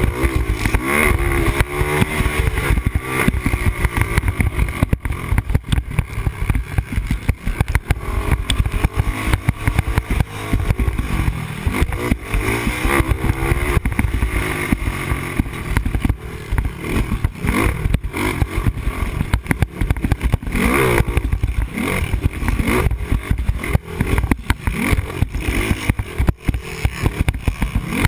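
Yamaha Raptor 250 quad's single-cylinder four-stroke engine revving up and down over and over as the rider works the throttle through the gears, with wind rushing over the helmet-mounted microphone.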